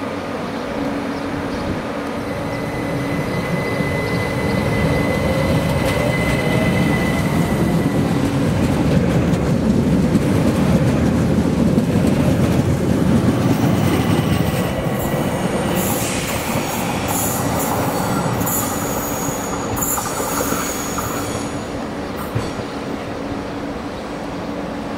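Train passing on the track, its rumble building to a peak in the middle, with high-pitched wheel squeal in the second half as it goes by.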